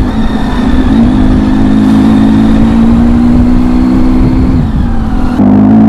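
Triumph Tiger 800's three-cylinder engine running loud through an Arrow exhaust with its baffles removed, a steady, deep drone whose pitch shifts slightly about a second in and again near the end.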